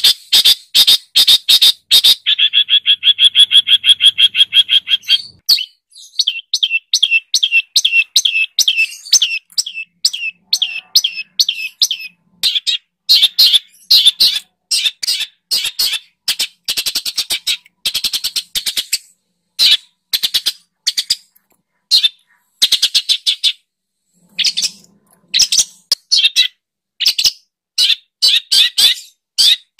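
Songbird singing a rapid series of sharp chirps, several a second, with a steady buzzy trill a few seconds in and short pauses later on: masteran tutor-song material for training long-tailed shrikes.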